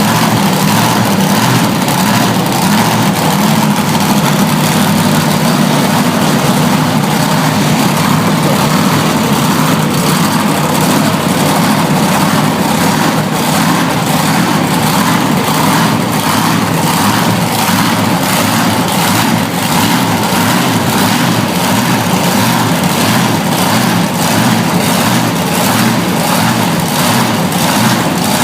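A loud heavy-vehicle engine idling steadily, with no rise or fall in pitch.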